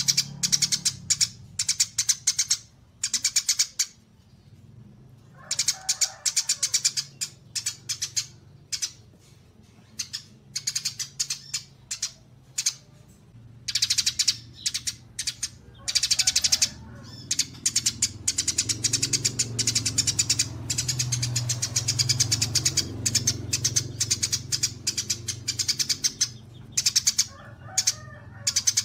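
Songbird chirping in long runs of rapid, high notes broken by short pauses, as in a recording used to train caged songbirds.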